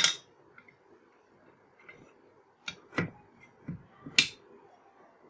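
Five sharp metallic clicks and knocks of motorcycle engine parts being handled and set down during assembly. The loudest comes at the start and another near the end.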